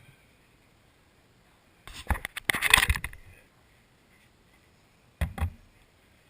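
Rattling clatter of hard objects for about a second and a half, then two quick knocks.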